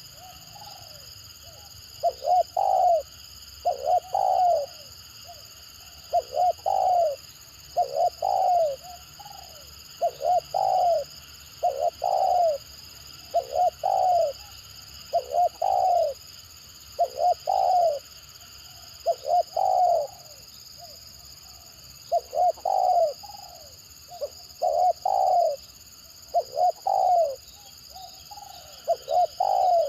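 Spotted dove cooing in a stuttering call: short phrases of two or three quick coos, repeated about every two seconds.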